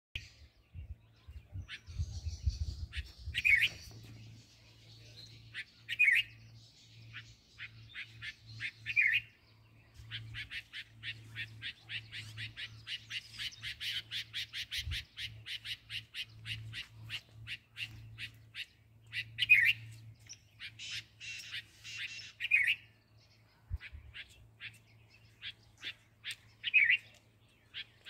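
A bird calling: long runs of quick chattering notes, several a second, with about six louder, sharper calls every few seconds, which the uploader hears as 'BJP'.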